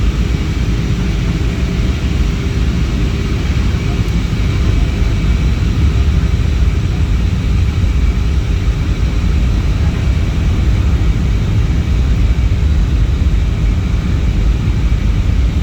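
Cebu Pacific airliner's steady, loud low rumble, with faint steady whining tones above it.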